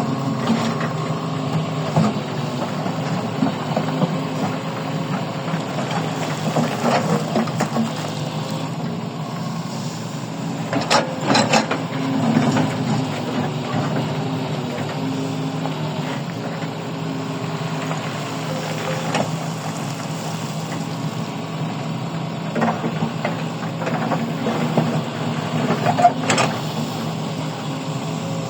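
Heavy mining machine's engine running steadily, with a few sharp metal clanks and knocks, the loudest about eleven seconds in and near the end.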